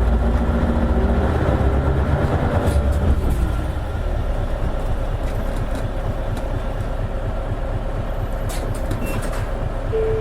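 Isuzu Erga KL-LV280N1 city bus diesel engine heard from inside the cabin, pulling under acceleration with its pitch rising for the first three seconds or so. It then eases off to a quieter steady run with road noise. A few light clicks come near the end.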